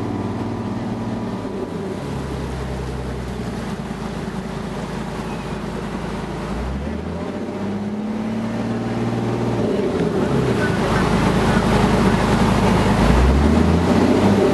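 Motorboat engine running, its pitch dipping and rising again a couple of times as the throttle changes, growing louder over the last few seconds.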